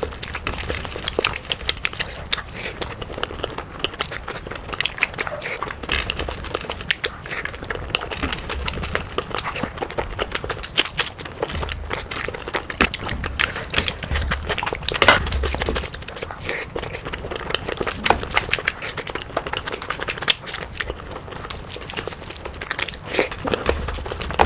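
Close-miked chewing and eating sounds: a dense, irregular run of quick clicks and crackles.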